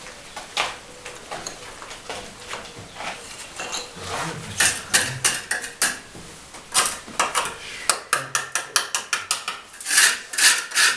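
Hand tools clicking and clinking against hard material in quick irregular runs, a few scattered strikes at first, then rapid series about four seconds in and again near the end, loudest just before the close.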